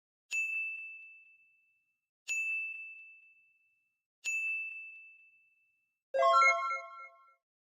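Three identical bell-like dings about two seconds apart, each a single high ring that fades out, followed about six seconds in by a short chime of several notes.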